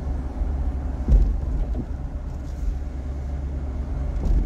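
A vehicle driving, with a steady low engine and road rumble and one short thump about a second in.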